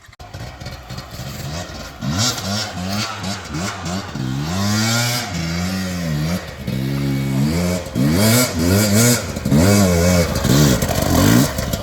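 Dirt bike engine revving hard under load on a steep hill climb, the revs rising and falling in repeated bursts about once a second as the throttle is worked. The bursts are the sign of an over-aggressive throttle that is making the front wheel bounce.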